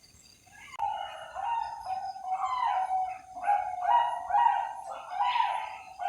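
Zebra dove (Bangkok-line perkutut) cooing: a run of short repeated notes, starting about a second in and going on in several phrases.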